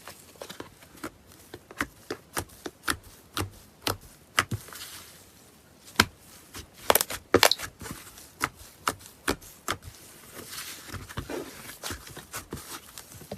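Slime being squeezed and pressed by hand, giving a series of sharp clicking pops, about one to two a second, with the loudest cluster around the middle.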